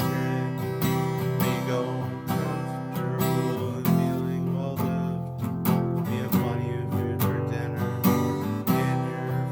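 Instrumental music: an acoustic guitar strummed in a steady rhythm.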